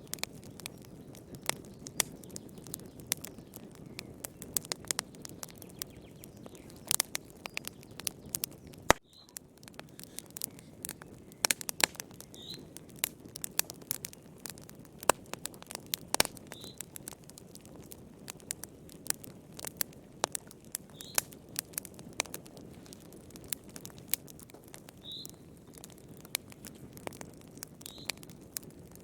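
Wood fire crackling: irregular sharp pops and snaps over a low, steady rustle of burning, with a momentary drop-out about nine seconds in. Short, faint high chirps recur every few seconds.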